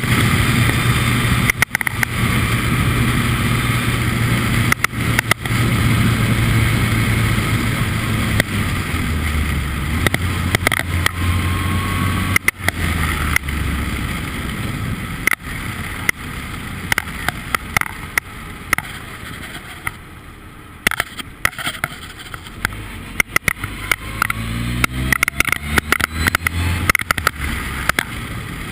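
Formula Ford race car engine running hard, its note holding high, then falling in steps about a third of the way in, easing off and quietening past the middle, and climbing steeply again near the end as the car accelerates. Sharp crackles and pops sound throughout.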